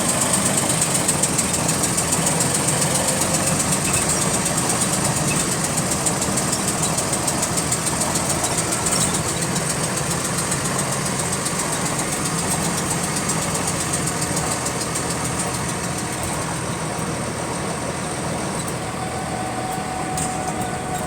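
Double-decker bus engine running with a rapid, repetitive clicking that keeps time with the engine speed, over a steady high whine. The cause of the clicking is unknown.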